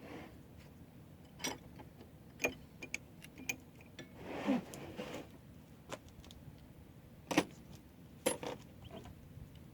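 Hand tools clinking and knocking against metal, about a dozen sharp irregular taps spread across several seconds, the loudest about seven seconds in.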